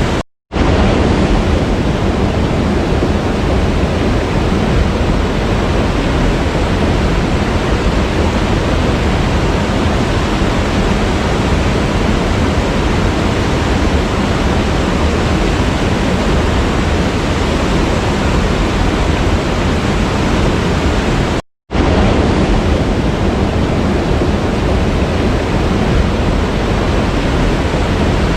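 A waterfall rushing steadily, an even roar of falling water, cut off for a split second twice: about half a second in and again near the end.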